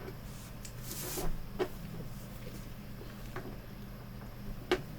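Knife blade working into the seam of a Samsung U32J590UQU monitor's plastic frame, prying at the bezel clips: a brief scrape about a second in and a few sharp plastic clicks.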